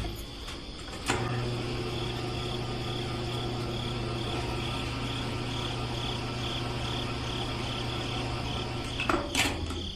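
A cricket chirping in a steady run of short pulses, about two a second, over a steady low hum that starts about a second in and stops near the end.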